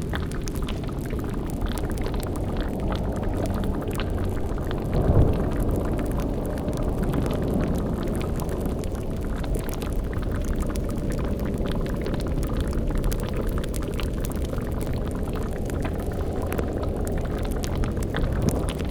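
Layered dark ambience: a bubbling cauldron over a steady low rumble, with a brief louder low swell about five seconds in.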